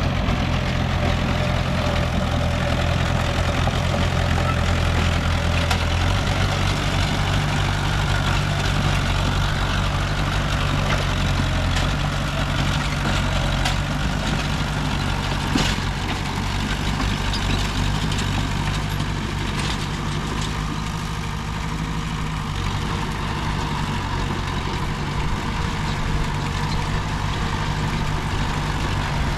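Diesel engine of heavy earthmoving equipment running steadily, its pitch shifting slightly about six seconds in, with a single short knock about halfway through.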